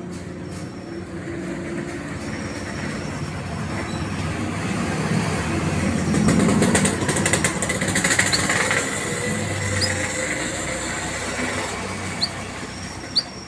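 A passing vehicle: its noise swells to a peak around the middle and then fades away. A canary gives a few short, sharp chirps over it.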